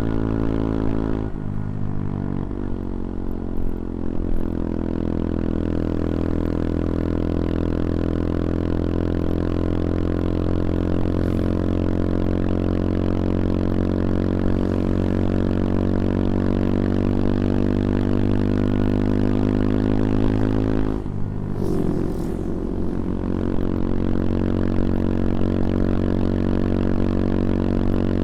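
CFMoto Papio XO-1's small single-cylinder engine running under way. Its pitch dips just over a second in and again about three quarters of the way through, and climbs slowly in between.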